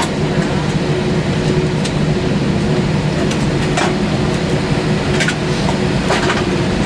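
Steady rumble and hum of an Airbus A320's cabin while the aircraft is on the ground after landing, with a few faint clicks.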